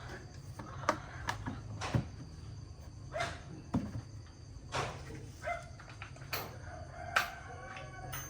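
Short clucking calls of chickens between scattered sharp clicks and knocks, over a low steady hum.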